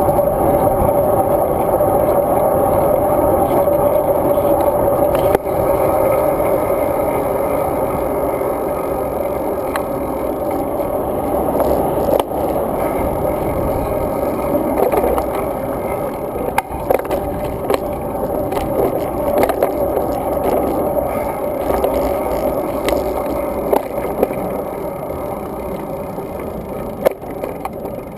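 Road bike rolling along: a steady, muffled rush of wind and tyre noise, with sharp clicks and rattles now and then.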